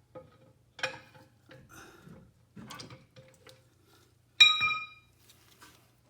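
Scattered metallic clinks and knocks as steel parts of a car's front drive axle and suspension are handled and shifted into place. About four and a half seconds in, one sharp metal-on-metal clink rings briefly.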